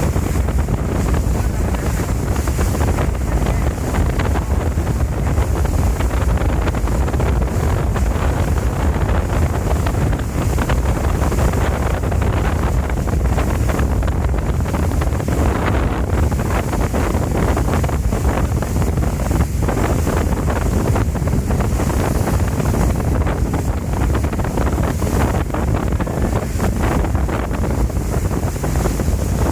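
Steady wind buffeting the microphone on a moving sightseeing boat, over a constant low rumble of the boat and the water.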